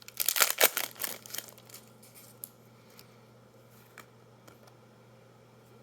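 Foil wrapper of a Magic: The Gathering booster pack being torn open and crinkled for about a second and a half, then a few faint clicks.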